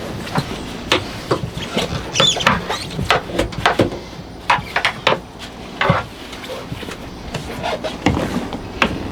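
Small brush scrubbing the bilge and stringers of a boat, irregular scrapes and knocks, with a short squeak about two seconds in.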